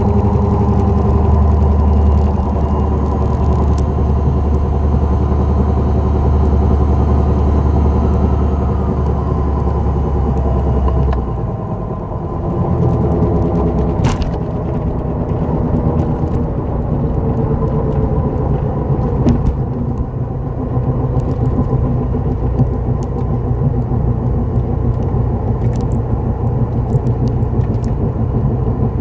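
2004 Dodge Neon SRT-4 driving, with a steady low drone from a bad wheel bearing under its road and engine noise. About eleven seconds in the deepest part of the drone drops away and the sound dips briefly, then settles into a new steady pitch.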